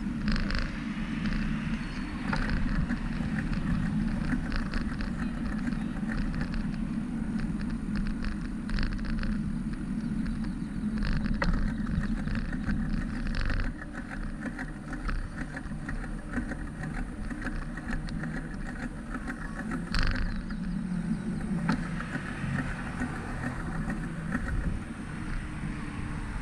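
Riding noise from a moving bicycle: a steady low rumble of wind and road on the microphone, with scattered light clicks and rattles.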